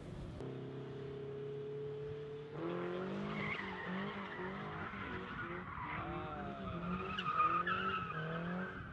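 A car being drifted: its engine holds a steady note, then from about two and a half seconds in revs up and down again and again over the skid noise of its tyres.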